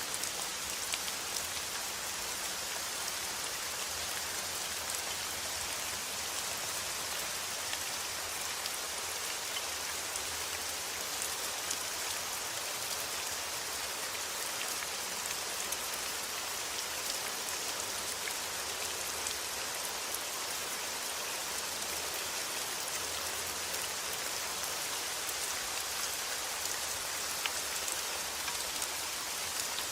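Steady rain falling, a constant hiss with many small drop ticks through it.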